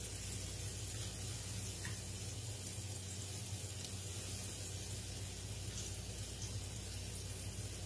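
Floured cube steak pieces shallow-frying in oil in a cast iron skillet: a steady, even sizzle over a low, constant hum.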